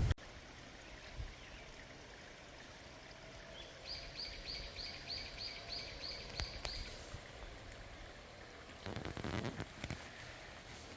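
Faint, steady outdoor background hiss with a bird calling a quick series of about ten short, high notes, about three a second, midway through; a brief rustle follows near the end.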